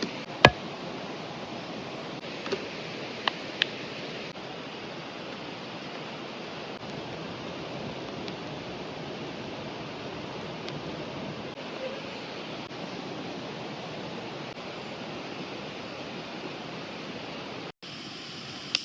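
River water rushing steadily. A sharp click comes about half a second in, and a few lighter clicks follow two to four seconds in.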